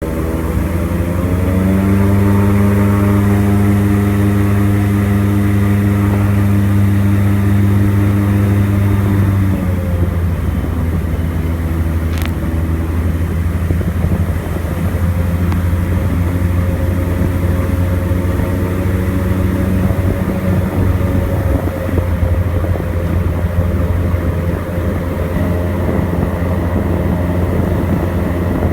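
Airboat engine and propeller running loud, rising in pitch over the first two seconds and then holding steady. About ten seconds in, the steady tone gives way to a rougher, noisier sound that carries on.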